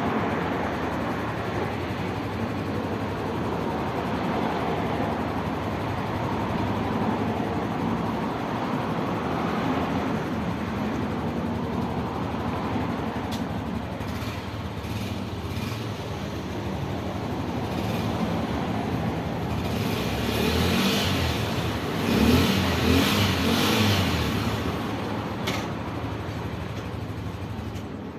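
Honda motorcycle engine running steadily, louder and rising for a few seconds in the last third, as if revved or pulling away.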